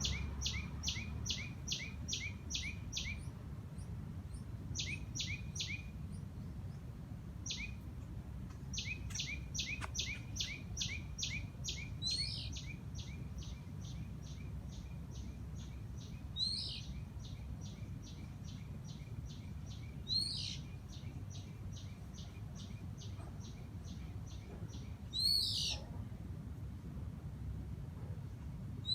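Birds calling: one gives rapid runs of short, high, evenly repeated notes, about four or five a second, in short bursts at first and then unbroken, while another gives a louder sweeping call about every four seconds, five times. A steady low rumble lies underneath.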